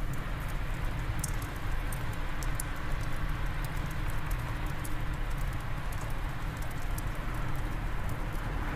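Steady wind with a wood fire crackling in a fireplace: scattered sharp snaps and pops over an even, low rumble.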